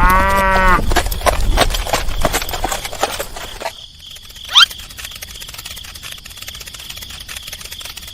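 Crickets chirring steadily. Over them, a short pitched animal call that rises and falls comes right at the start, then a run of clicks and knocks, then a quick rising whistle about halfway through.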